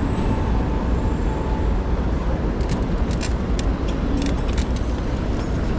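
Steady low rumble of a bicycle ride: tyre and wind noise on the microphone. About halfway through, a quick run of sharp clicks.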